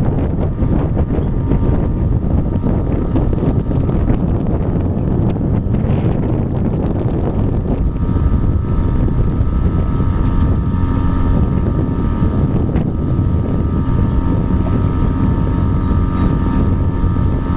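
Small boat's outboard motor running steadily, with wind buffeting the microphone and water rushing past the hull.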